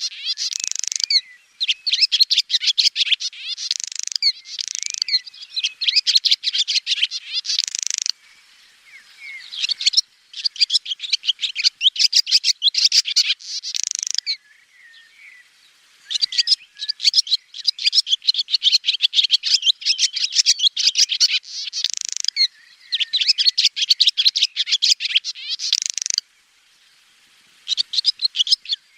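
Swallows twittering: long runs of rapid, high chirps and trills, broken by a few short pauses.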